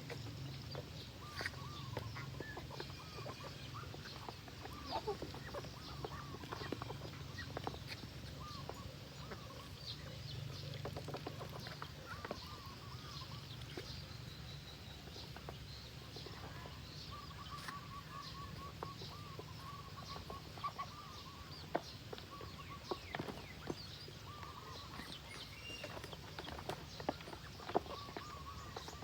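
A flock of farm poultry calling, many short repeated calls overlapping throughout, over a steady low hum.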